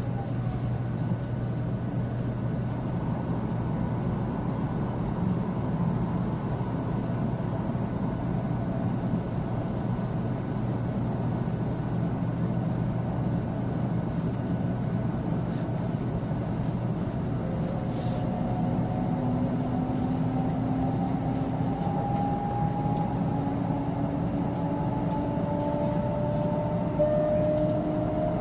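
500 series Shinkansen heard from inside a passenger car: a steady running rumble and hum, with a thin whine that appears about two-thirds of the way in and slowly rises in pitch.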